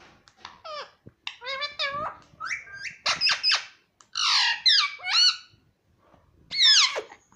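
Pet ring-necked parrot chattering in a string of high squeaky chirps and gliding whistles, ending in a loud call that swoops steeply down.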